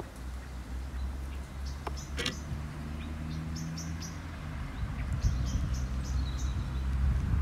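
Small birds chirping now and then, over a steady low rumble. A faint click about two seconds in.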